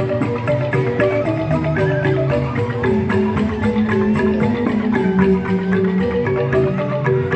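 Joged bumbung gamelan music: bamboo xylophones (grantang) play a fast, busy melody of struck notes over a steady beat of percussion strikes.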